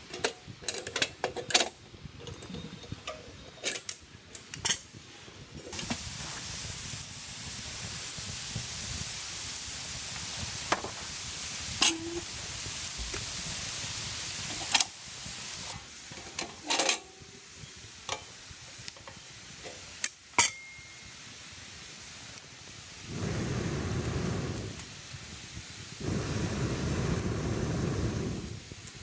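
Cooking in a pan or pot: a steady sizzling hiss with scattered sharp clinks and clicks of a utensil against metal. Two louder stretches of lower rushing noise come near the end.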